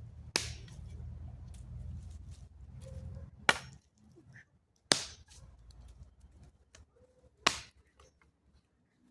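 Four sharp cracks, one or two seconds apart, over a low rumble that fades out a little before halfway.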